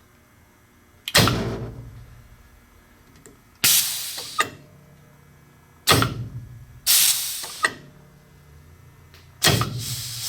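Pneumatic power drawbar on a small X2 mill being cycled: five sudden hissing blasts of air, each dying away over about a second, three of them with a low thump as the air cylinder strokes.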